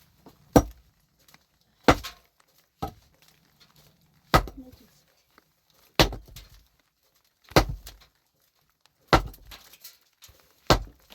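Heavy hand-tool blows striking hard material: about eight sharp strikes at a steady pace, roughly one every second and a half, one of them lighter.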